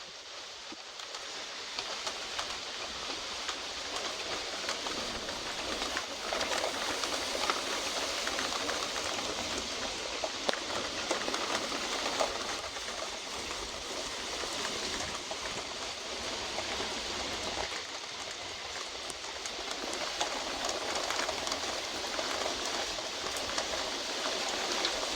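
Heavy rain of a thunderstorm falling steadily, building up over the first few seconds, with scattered drop ticks in the hiss.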